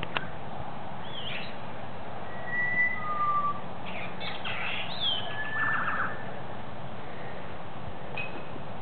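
Small birds chirping and whistling: a few short swooping calls, a couple of held whistled notes, and a busier run of calls in the middle, over a steady background hiss.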